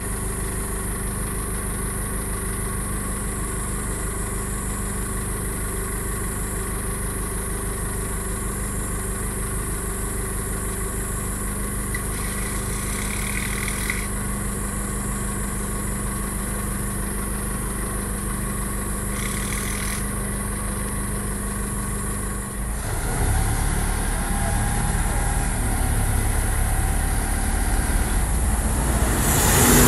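Steady engine or motor hum. About 22 seconds in, it gives way to a louder, rougher noise.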